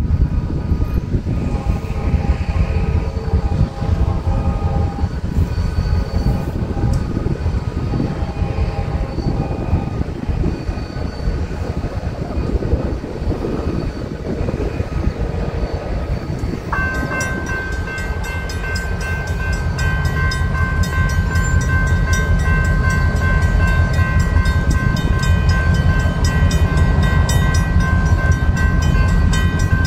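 Approaching CSX freight train: the locomotives' diesel engines rumble steadily while the horn sounds in broken blasts during the first half. About seventeen seconds in, the grade crossing's warning bell starts ringing rapidly and keeps going as the crossing activates for the oncoming train.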